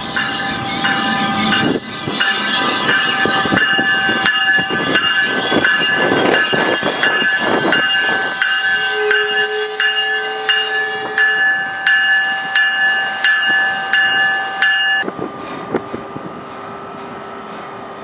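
NJ Transit ALP-46A electric locomotive and its train rolling slowly into a station, with a high squeal of several steady tones and a run of evenly spaced wheel clicks over rail joints. The squeal cuts off suddenly about 15 seconds in, leaving a quieter rumble of the train.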